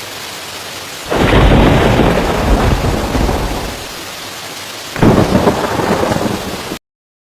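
Dust-storm wind buffeting the microphone in loud, rumbling gusts of rushing noise, with a lull in the middle, then cutting off abruptly near the end.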